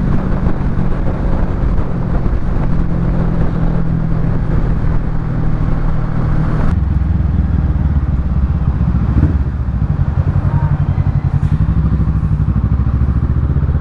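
Kawasaki Ninja 650's parallel-twin engine running through a Yoshimura Alpha full exhaust at steady, low revs. About halfway the note drops lower and takes on a pulsing throb.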